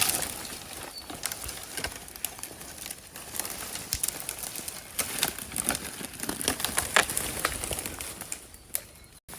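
Undergrowth crackling, rustling and snapping in irregular sharp bursts as something pushes or is dragged through thick brush; the sound cuts off abruptly near the end.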